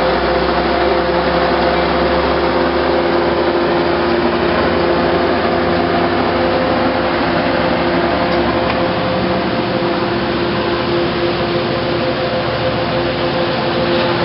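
West Coast Express commuter train pulling out of the station, its bilevel coaches rolling slowly past under the steady drone of the EMD F59PHI diesel locomotive. It makes a loud, even noise with a few held humming tones.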